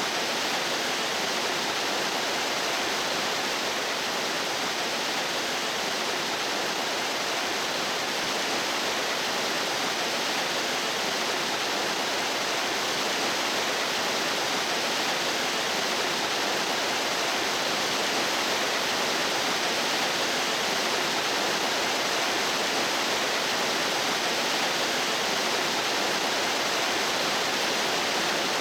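Mountain stream water rushing steadily, an even, unbroken hiss.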